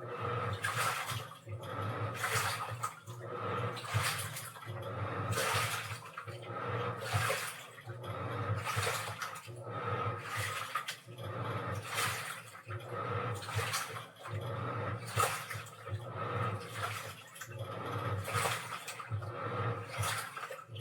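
Washing machine running, with water and laundry sloshing in the drum in regular surges about every second and a half over a steady motor hum.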